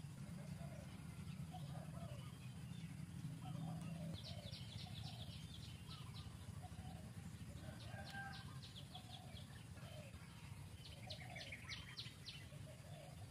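Birds calling in the background, with three rapid high-pitched trills of about a second and a half each, over a steady low background noise.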